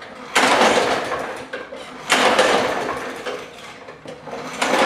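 Snapper self-propelled mower's Briggs & Stratton 6.75 hp overhead-valve engine being pull-started from cold. The recoil starter is pulled three times, each a sudden burst that fades away, and the engine does not catch.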